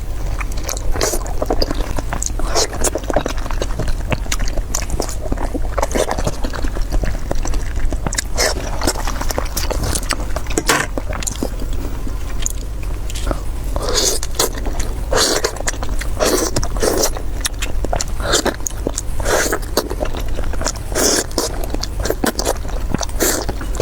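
Close-miked eating: repeated biting and chewing, heard as many short crisp sounds at an uneven pace, over a steady low hum.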